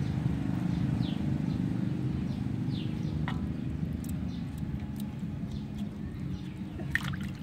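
Birds calling with short falling whistles, one every second or two, over a steady low hum, with a few sharp clicks near the end.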